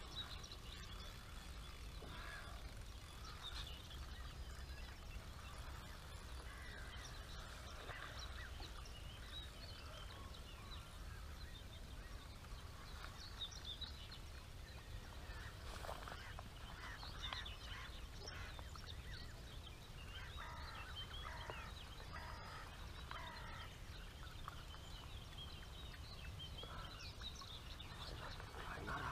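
Faint birdsong: many short, irregular chirps and calls from birds, over a low steady rumble.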